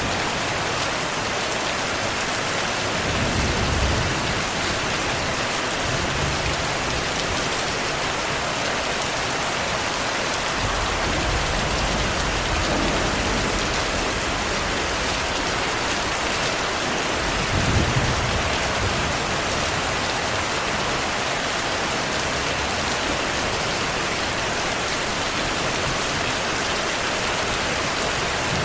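Heavy rain falling steadily, with low rumbles of distant thunder swelling twice, about four seconds in and again a little past halfway.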